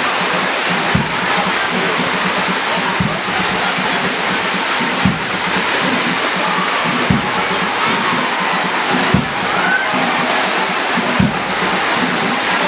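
Heavy rain pouring down in a steady loud hiss, with a low drumbeat about every two seconds under it.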